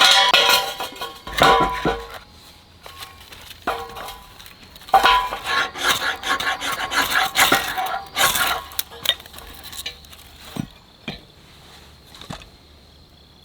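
Dishes and utensils clinking and scraping as they are handled, with short ringing tones. It is busiest at the start and again in the middle, then drops to a few single knocks.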